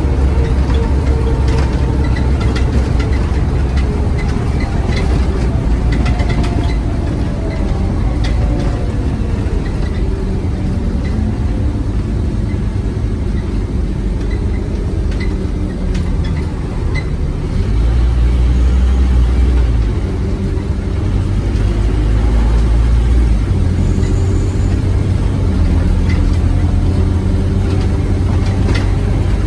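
Scania OmniCity bus's diesel engine and drivetrain heard from on board: a whine falls away as the bus slows over the first ten seconds, then the engine pulls harder again from a little past halfway, with small rattles from the body throughout.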